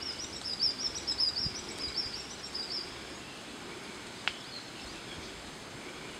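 A small bird singing a fast run of high, chirping notes for about three seconds over a steady outdoor hiss. A single sharp click comes about four seconds in.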